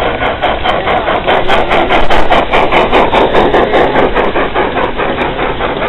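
A train running with a steady, fast rhythmic clatter, about five or six beats a second.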